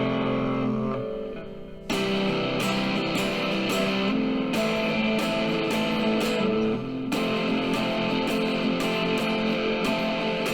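Guitar playing an instrumental break of a rock song, over a bass line and a steady beat. The music fades for a moment about a second in and comes back sharply at about two seconds.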